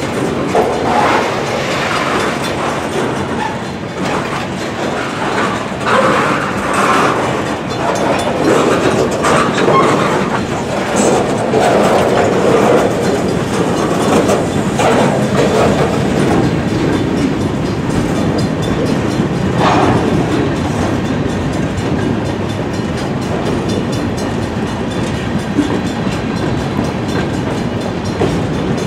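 Freight train cars rolling past at a grade crossing, a steady rumble of steel wheels on rail with repeated clacks as the wheels cross the rail joints.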